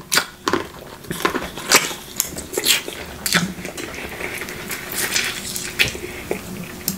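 Close-miked eating sounds of a person chewing crab meat: a run of short, sharp mouth clicks and smacks through the whole stretch.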